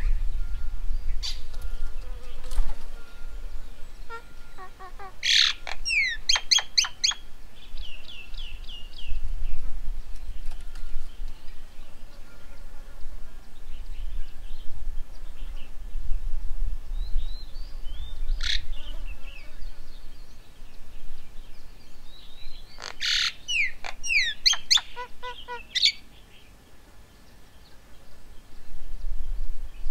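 Birds calling in two loud bursts of quick, sharp, falling notes, one about five seconds in and one after twenty seconds, with a lone call in between. A low rumble runs underneath.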